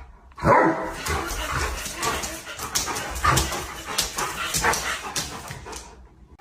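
A dog whimpering and giving short yips, mixed with many quick scuffling clicks.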